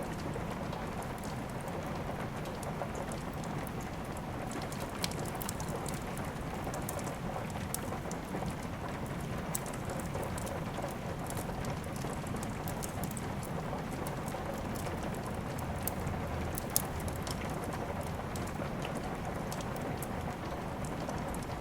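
Steady rain hissing, mixed with a wood fire crackling: many small sharp ticks and pops over the rain, with a few louder single pops, the loudest about three-quarters of the way through.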